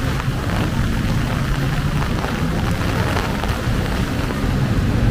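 Steady rain falling, with the low hum of vehicle engines underneath.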